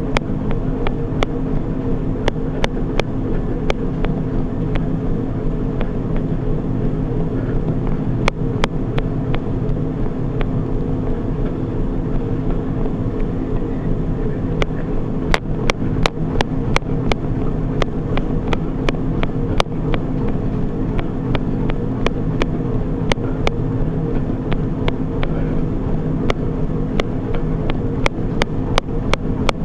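Treadmill running steadily: an even motor-and-belt drone with a few held tones, broken by sharp, irregular clicks.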